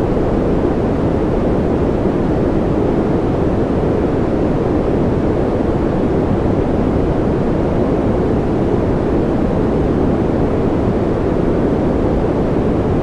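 Baby-sleep white noise: a steady, unchanging noise that is strongest low down, with little high hiss, giving a deep rushing sound.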